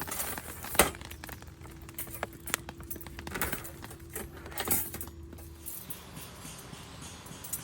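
Light metal parts clinking and rattling in a run of sharp clicks and knocks, one louder knock about a second in. A faint steady hum runs underneath and stops about six seconds in.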